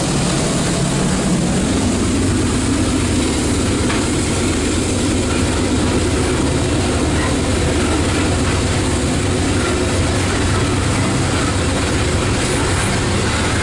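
Loaded coal cars of a CSX freight train rolling past on the rails: a steady, unbroken noise of steel wheels on track.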